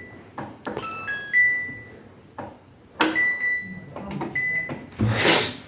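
Toshiba washing machine control panel beeping as its buttons are pressed: short two-note electronic beeps, each stepping up in pitch, each after a click, about a second in, three seconds in and four seconds in. A short loud burst of noise near the end.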